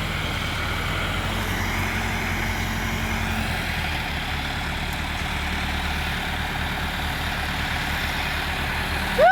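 Diesel farm tractor engine running steadily, a low pulsing rumble. A brief loud tone that rises and falls cuts in at the very end.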